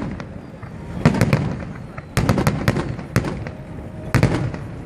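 Fireworks shells bursting overhead: clusters of sharp bangs roughly a second apart, each followed by a low rumble.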